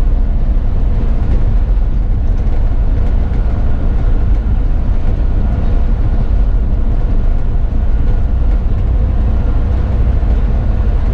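A bus driving along, heard from the driver's seat: a steady, loud low rumble of engine and road noise with a faint steady whine.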